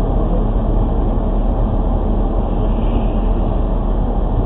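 Steady rumble of a moving car's engine and tyres on the road, heard from inside the vehicle, with no sudden impacts.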